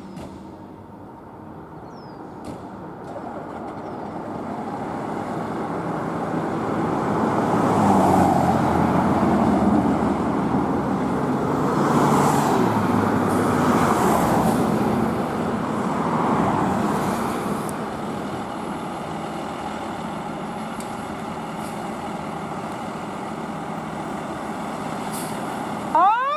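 Fire engine driving up, its engine and road noise growing louder over about eight seconds and then holding steady. A siren starts winding up right at the end.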